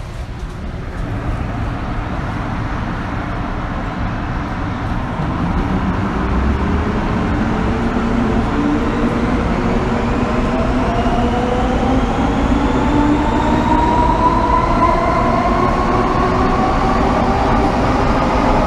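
MTR Kwun Tong Line M-Train pulling away and accelerating, heard from inside the carriage. Its traction motors give several whining tones that climb steadily in pitch as speed builds, over the rumble of the wheels, growing slightly louder.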